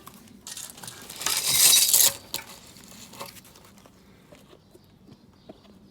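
Metal suspension parts being handled: a loud scraping rustle about a second in, then a sharp clink and a few faint clicks.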